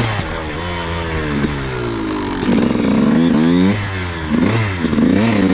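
Off-road engine under a rider's throttle, revving up and falling back several times, loudest about halfway through.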